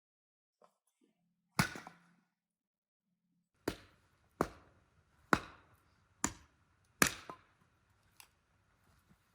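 Seven sharp knocks, one about a second and a half in and six more a little under a second apart, each with a short ringing tail.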